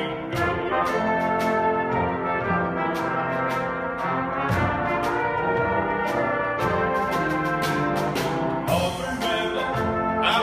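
Orchestral show-tune music led by brass, with a steady beat of percussion strokes.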